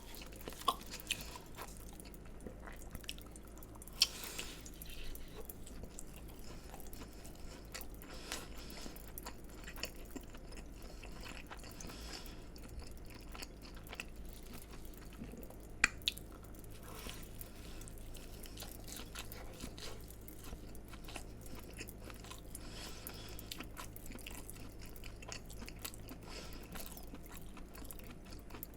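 Close-miked chewing and biting of crispy fried food, with moist chewing and frequent small crunches. Two sharper bites stand out, about four seconds in and around sixteen seconds.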